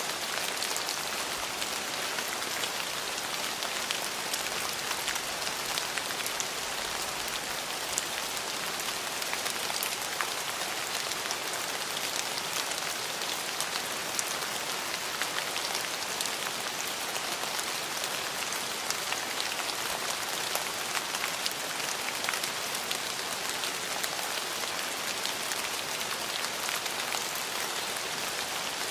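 Steady rain falling, with many individual drops ticking sharply on a surface among the even hiss of the downpour; no thunder is heard.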